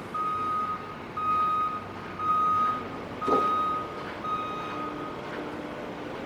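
A construction vehicle's reversing alarm beeping: five steady single-tone beeps about a second apart, stopping about five seconds in. There is a short knock about three seconds in, and an engine hums underneath.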